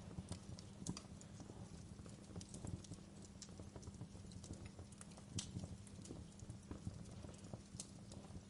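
Wood fire crackling in a fireplace: irregular sharp pops and ticks, a few louder snaps, over a low steady rumble of the flames.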